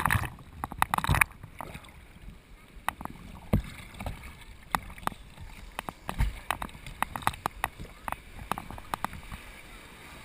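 Seawater splashing and sloshing around a board in the surf. A rush of water in the first second or so is followed by many short sharp taps and knocks.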